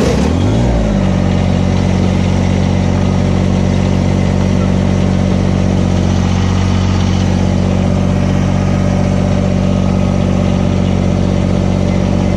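Kubota BX1860 three-cylinder diesel engine coming up to speed just after starting, settling within about a second into a steady run.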